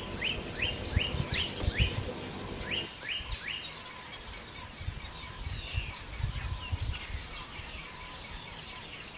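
Wild birds calling: a rapid series of short, high chirps that each sweep downward, about three a second for the first three seconds, then sparser and fainter calls. Low rumbling bumps on the microphone run underneath.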